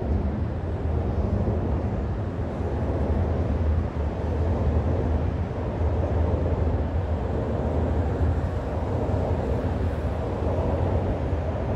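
Shinkansen train running along an elevated viaduct: a steady low rumble with no breaks.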